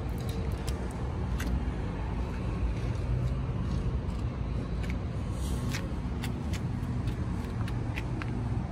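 A car engine idling steadily: a low, even hum with a few faint clicks.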